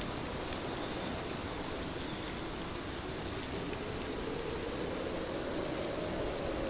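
Heavy rain falling steadily, with scattered drop ticks.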